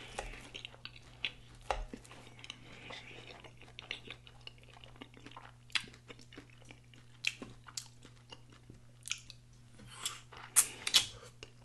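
Close-miked chewing and smacking of cheese-sauced fries, a run of small wet clicks, with several louder, sharper bites about ten seconds in as a pepperoncini pepper is bitten.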